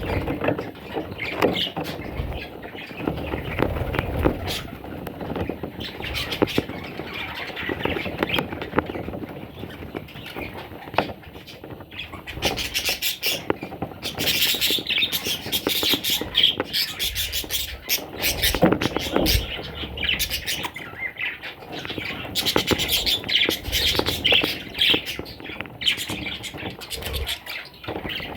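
A flock of budgerigars chattering, chirping and squawking without a break, growing busier and shriller about halfway through.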